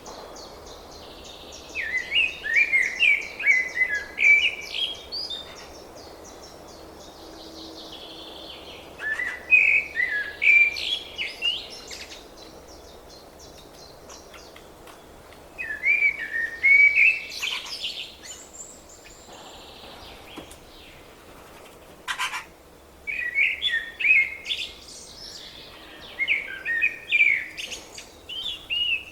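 A small songbird singing: five short, chirpy song phrases a few seconds apart, over a faint steady background hiss.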